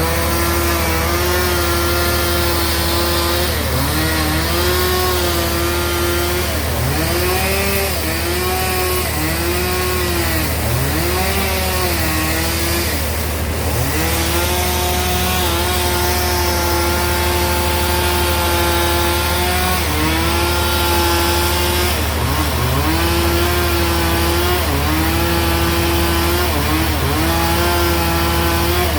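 Sawmill bandsaw running and cutting through a large log: a steady low hum under a droning tone that dips in pitch and recovers again and again, with the drive slowing under cutting load.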